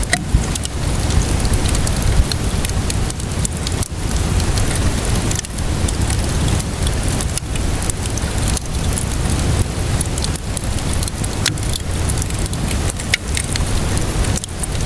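Steady rainfall mixed with a crackling wood fire, with scattered sharp pops and crackles over a constant low rush.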